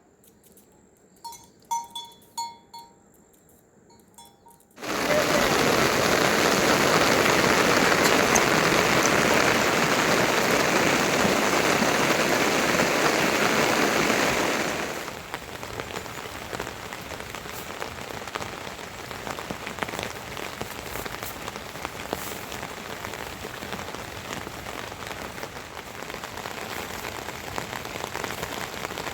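Rain, starting abruptly about five seconds in after a few faint short chirps: heavy and even for about ten seconds, then lighter, with scattered drops pattering.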